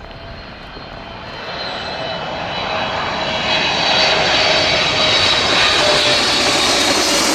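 Jet airliner on final approach passing low overhead. Its engine roar grows steadily louder, with a high whine, and the whine starts to drop in pitch near the end as the plane comes over.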